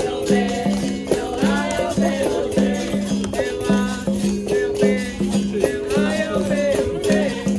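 Capoeira roda music: a berimbau plucking a repeating rhythm with its caxixi rattle, and voices singing a call-and-response song over it.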